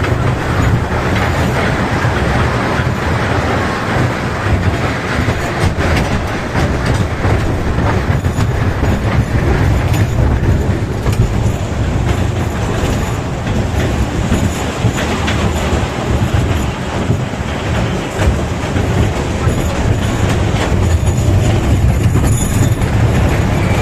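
Train running along its track: a steady rumble with light clatter from the wheels on the rails.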